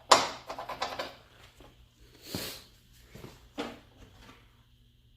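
Hand tools clicking and knocking against metal while strut top bolts are being worked: a quick run of sharp clicks in the first second, a short hiss about two and a half seconds in, and another knock a little later.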